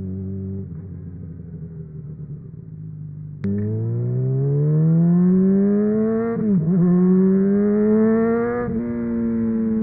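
Honda CBR600RR inline-four with a MIVV Suono exhaust, running softly off the throttle, then opened up hard about a third of the way in. Revs climb steadily, dip sharply at a quick gear change, climb again, and drop a little at a second shift near the end.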